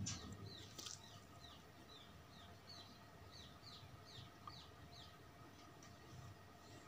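Faint bird chirping: a run of short, falling chirps, about two a second, lasting roughly five seconds, over a faint steady hum.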